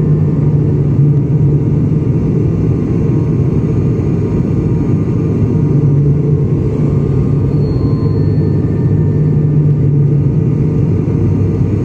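Steady low rumble of an airliner's engines and airflow heard inside the passenger cabin during landing, with a constant low drone.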